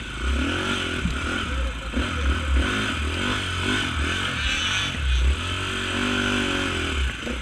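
Off-road motorcycle engine revving up and down over and over as the throttle is worked, with an uneven low rumble beneath.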